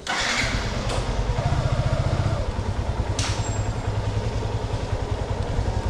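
Motorcycle engine running as the bike is ridden, a steady low pulsing, with brief sharp noises about one and three seconds in.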